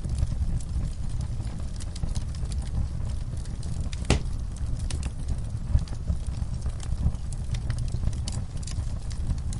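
Wood fire in a fireplace crackling, with a steady low rumble and scattered small pops. One sharper pop comes about four seconds in.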